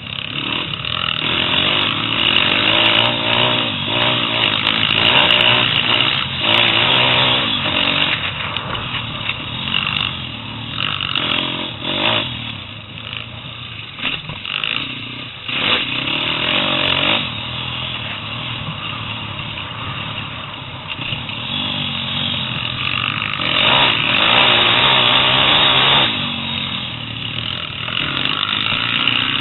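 125cc pit bike's single-cylinder four-stroke engine being ridden hard, revving up and easing off over and over, its pitch rising and falling with the throttle.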